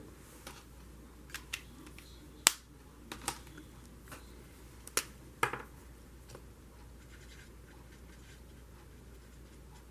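Marker tip dabbing and scratching on shiny coated paper: a scatter of small clicks and scratches, loudest about two and a half seconds in, dying away after about six seconds to faint room hiss.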